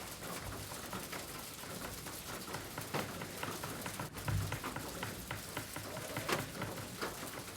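Rain pattering steadily, with many small irregular drop taps.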